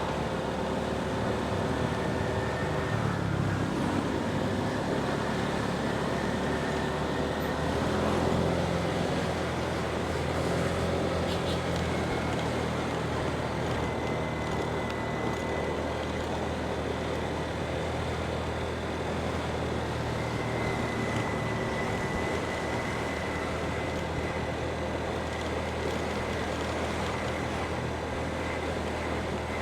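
Motorbike engine running steadily while riding, over a continuous rush of road noise.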